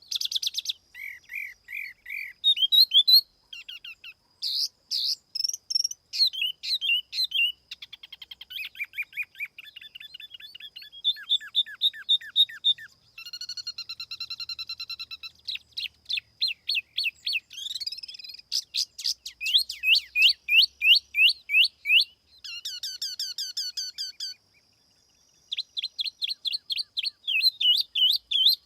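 A tiểu mi songbird singing its lure song: a fast, varied run of phrases made of repeated short notes, quick rising and falling whistles and trills. There is a brief pause about four seconds before the end.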